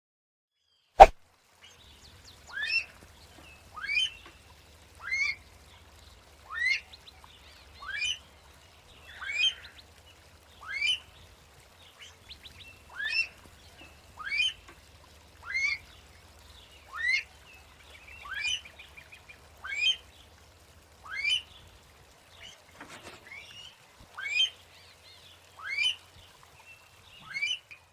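A sharp click, then a bird repeating a short, quickly rising call over and over, about once every second and a half.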